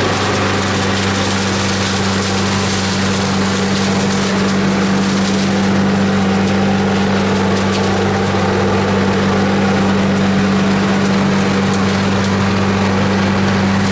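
Parker Scavenger SV89301CSP big vacuum running steadily with a constant low hum and a loud rush of air, with crackling as leaves and debris are sucked through it.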